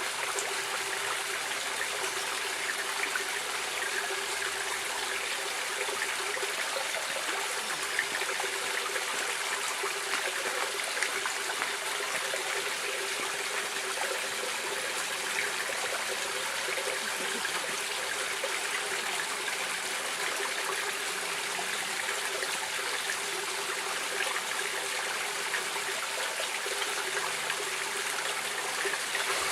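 Flowing stream water running steadily: an even rush with fine trickling and splashing throughout.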